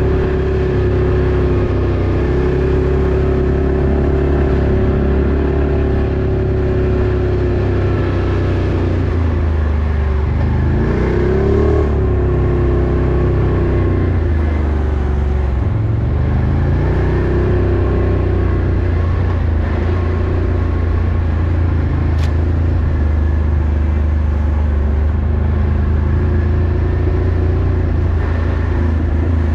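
Off-road vehicle engine running under way. Its pitch rises and falls briefly about ten seconds in, and rises again about sixteen seconds in as the throttle changes.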